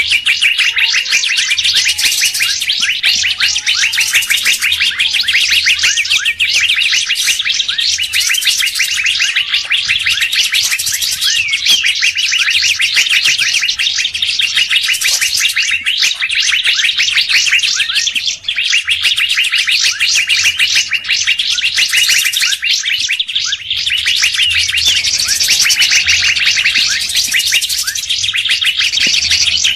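Songbird lure recording: a dense, unbroken stream of rapid chirps and short whistled notes from several birds calling at once, with occasional sliding whistles.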